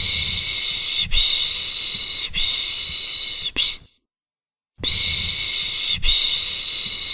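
A person shushing to soothe a baby: drawn-out 'shhh' hisses of about a second each, three long ones and a short one in a run, then about a second of silence before the next run starts.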